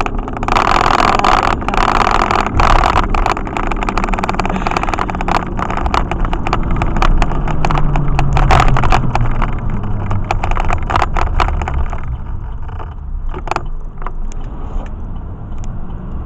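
Truck driving on knobby tires, heard from inside the cab with the windows up: a steady drone of engine and tire noise, with frequent small clicks and rattles over bumps. The engine note rises and falls around the middle, and the noise eases after about twelve seconds.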